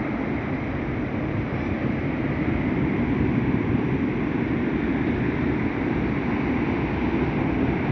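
Sea surf with wind buffeting the microphone: a steady rushing noise, heaviest in the low end.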